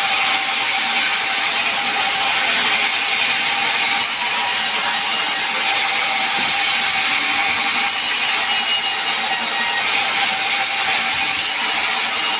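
Sawmill machinery running steadily: a loud, even mechanical noise with a constant whine.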